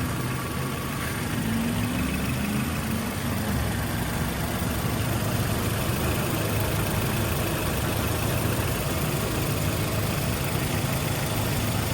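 A Toyota 2RZ-FE 2.4-litre four-cylinder engine in a 2004 Tacoma idling steadily.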